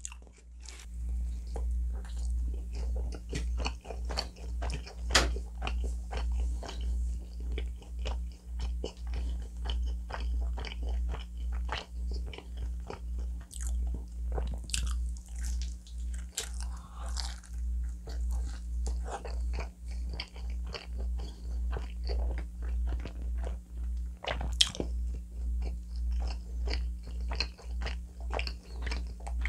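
Close-miked chewing of a mouthful of hot chicken pizza, a steady rhythm of about one and a half chews a second with crisp crunches of crust; a couple of louder crunches stand out, about five seconds in and near the end.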